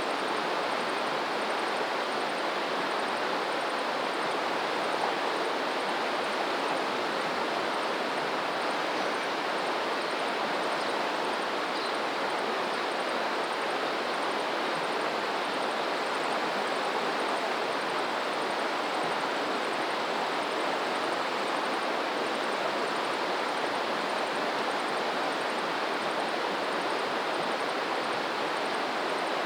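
Steady rushing of flowing water, even and unbroken, with a faint high-pitched ticking repeating evenly in the background.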